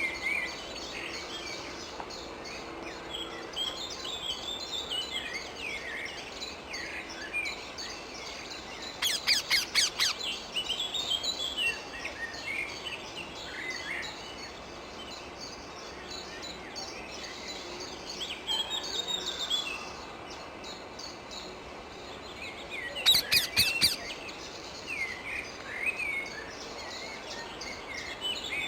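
Wild rose-ringed (Indian ringneck) parakeets calling: two loud bouts of rapid, harsh, repeated screeches, each about a second long, about nine seconds in and again near the end, over constant high twittering and chirping of birds.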